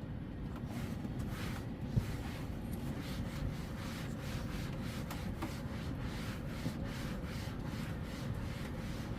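Faint scraping and rubbing noises repeating several times a second over a steady low rumble, with one small click about two seconds in.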